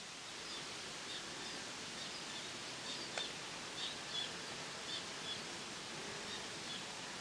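A bird giving short, high chirps, repeated roughly every half second, over a steady background hiss, with one sharp click about three seconds in.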